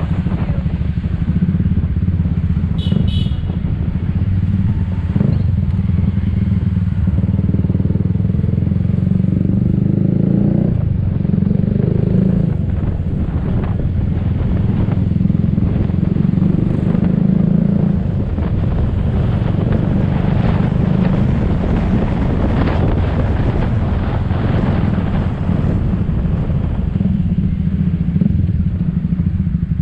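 Motor scooter being ridden through city traffic: its engine running steadily under a heavy low rumble of wind on the microphone, with surrounding traffic noise. A brief high-pitched beep comes about three seconds in.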